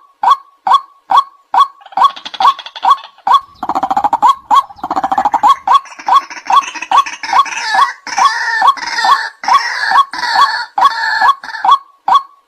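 White-breasted waterhen calling, a monotonous series of sharp 'kwak' notes at about three a second. From about two seconds in until near the end, a denser, ragged chorus of overlapping croaking calls joins in, before the plain series resumes. This is a lure call recording used to draw waterhens in for trapping.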